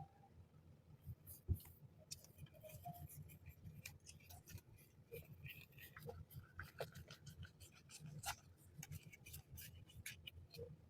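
Faint handling of unboxed stationery and packaging: light clicks, taps and scratchy rustles, with one sharper knock about a second and a half in.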